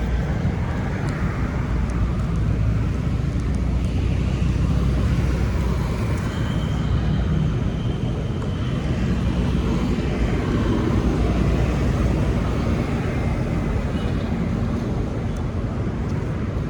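Steady city street traffic: vehicle engines running and tyres passing on the road.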